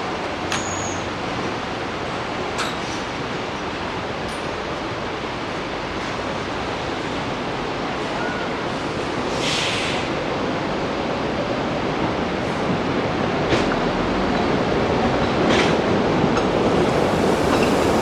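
Train running on rails: a steady rushing noise with scattered clicks and a short hiss about halfway through, growing louder toward the end.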